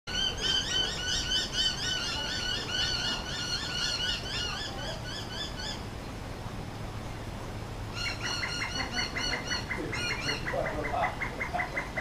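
Mixed backyard birds, among them noisy miners, Indian mynas and rainbow lorikeets, giving alarm calls while mobbing a cormorant that has landed in a tree. Fast runs of repeated high ringing notes for about six seconds, a short lull, then another rapid series of short sharp notes from about eight seconds.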